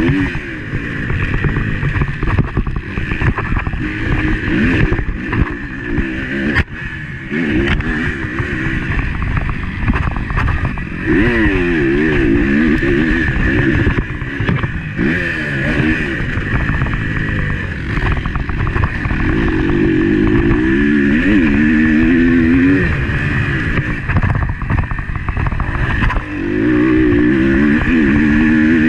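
Motocross bike engine heard on board, revving up and dropping back again and again as it is ridden hard through the gears, with several long stretches held at high revs. Under it runs a rough low rumble.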